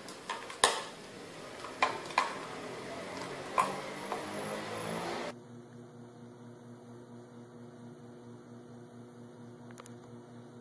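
A plate knocking and clattering on a hard stone floor as a cat paws at it: four or five sharp knocks in the first five seconds. After an abrupt change about five seconds in, a steady low hum.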